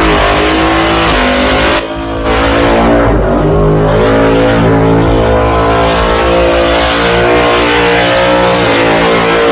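The Warbird burnout car's engine is held at high revs with the tyres spinning in a burnout, loud and continuous. The revs drop sharply just under two seconds in and sag again about a second later, then are held high to the end.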